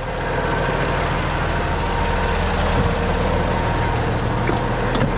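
Heavy diesel semi-truck engine idling steadily, with a couple of brief clicks near the end.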